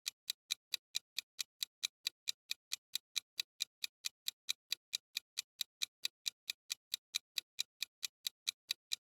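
Clock-ticking timer sound effect, even sharp ticks at about four to five a second, counting down the time to answer a quiz question.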